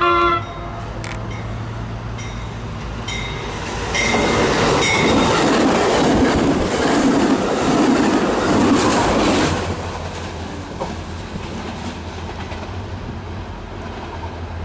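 MARC commuter train passing close through a station: a low steady drone as it approaches, then about five seconds of loud rushing and wheel clatter on the rails as the coaches go by, falling away as it moves off. A short, loud pitched tone sounds right at the start.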